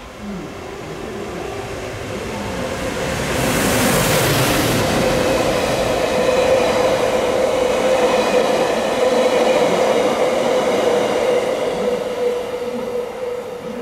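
A freight train passes at speed: an EF510 electric locomotive towing new 737-series EMU cars, wheels rumbling on the rails. It grows louder as it nears and peaks with a rush about four seconds in. A steady hum runs under the passing cars, and the sound fades near the end as the train goes away.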